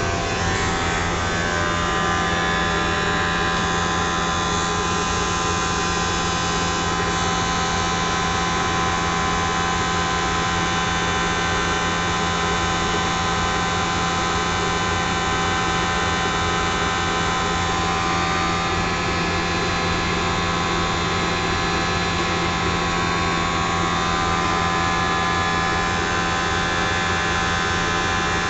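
Triangle blower motor running steadily: an even hum with several steady whining tones above it and a rush of air, unchanging throughout.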